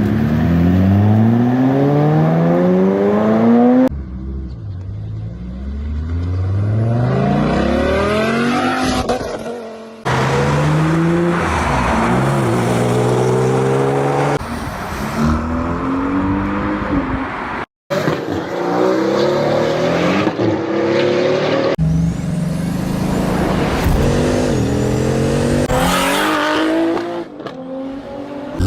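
Cars accelerating hard one after another as they leave, engines revving with pitch climbing steeply as each pulls away. Several separate pulls, each cut off abruptly by the next.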